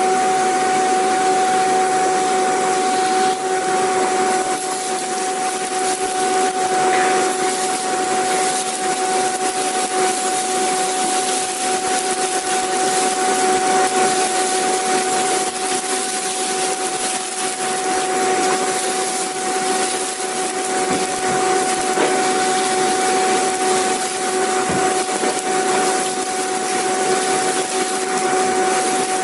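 Vacuum cleaner running continuously: a steady rush of air with an unchanging motor whine on top.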